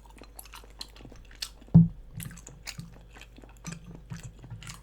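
Close-miked chewing of a chewy rice cake, with many small wet mouth clicks and soft low pulses as it is chewed. There is one loud thump about two seconds in.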